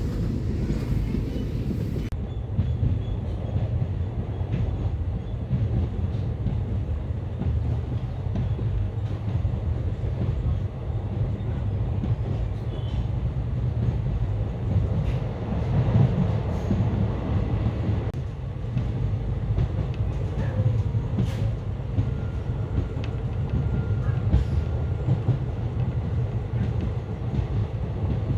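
Moving passenger train heard on board: a steady low rumble of the wheels on the rails, with occasional clicks.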